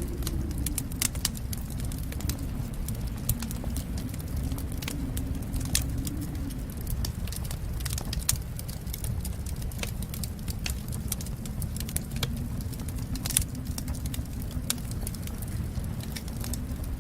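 Fireplace fire crackling, with frequent irregular sharp pops and snaps over a low steady rumble.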